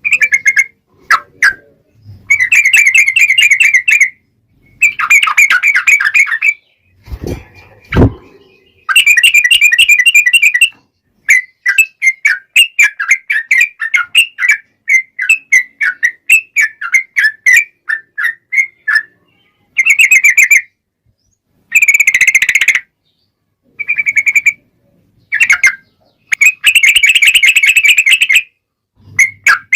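Yellow-vented bulbul (trucukan) singing in loud bursts of rapid, repeated chattering notes, one burst after another with short pauses between. Two low thumps come about seven and eight seconds in.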